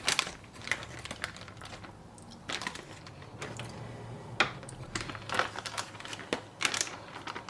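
Plastic sealable bag crinkling, with irregular light clicks and knocks as marinated chicken thighs are moved from the bag into a baking dish.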